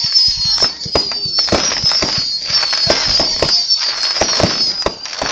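Fireworks going off in quick succession: a rapid run of bangs and crackling pops, with a high, wavering whistle running under them that fades near the end.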